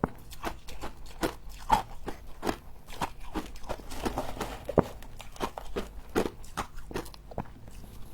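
Frost being bitten and chewed close to the microphone: a quick, irregular run of crisp crunches, about two to three a second.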